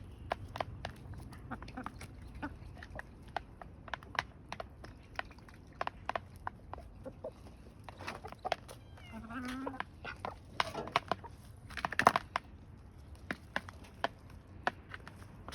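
Chickens feeding: many short, sharp taps of pecking at feed, with clucking calls about eight to ten seconds in and a louder call about twelve seconds in.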